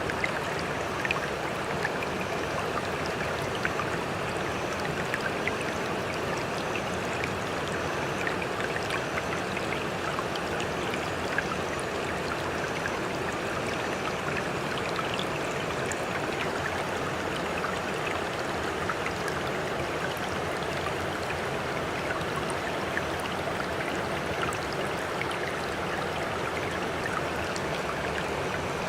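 Steady splashing and trickling water, full of small drips and splashes, with no rise and fall of breaking surf.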